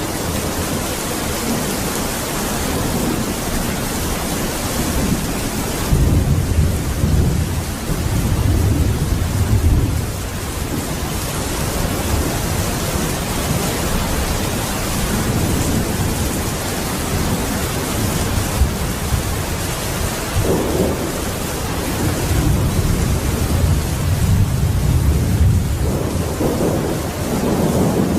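Heavy rain pouring down steadily, with long low rumbles of thunder rolling in about six seconds in and again in the second half.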